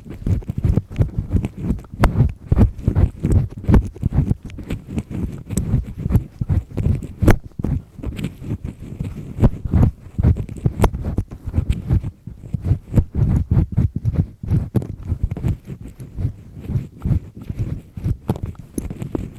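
Double-disc earpick scraping and rubbing firmly in an ear canal close to the microphone: a continuous run of irregular scratching strokes with many small clicks and crackles.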